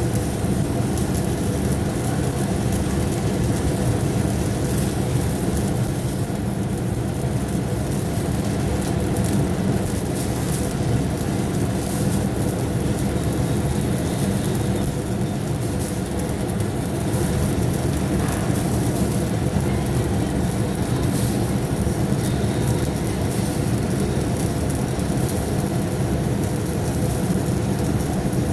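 Arc welding: a steady crackling arc with a low hum underneath, held without a break.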